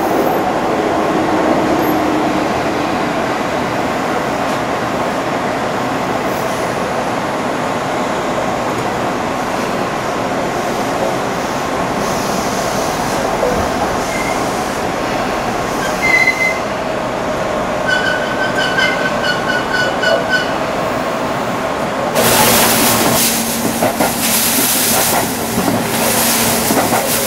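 Tobu Railway electric train running, heard from the driver's cab: a steady rumble of wheels on rail and motors. Past the middle comes a short, rapid series of high beeps, and near the end a louder hissing rush of noise.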